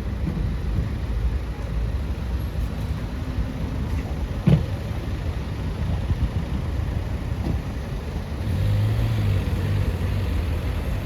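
City street ambience of motor traffic, a steady low rumble, with one sharp knock about halfway through. Near the end a steady low engine hum comes in.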